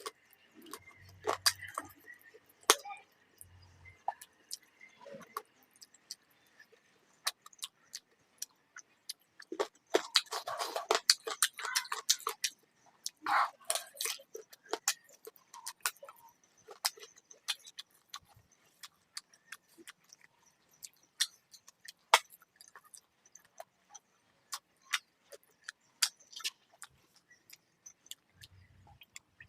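Eating sounds of a person chewing chicken curry and rice: irregular wet clicks and lip smacks, with a denser stretch of chewing and smacking about ten to fourteen seconds in.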